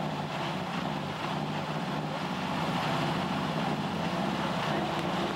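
First-generation Subaru Impreza rally car's turbocharged flat-four engine running at steady, low revs, with no revving.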